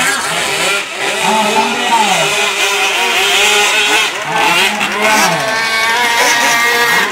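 Small engine of a fuel-powered radio-controlled boat running, its pitch rising and falling again and again as the throttle is opened and closed.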